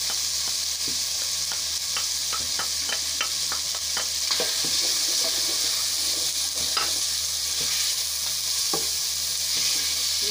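Mutton liver frying in oil with tomato and ground spices, a steady sizzle. A wooden spoon stirs it, with scattered clicks and scrapes of the spoon against the pot, thickest in the first few seconds.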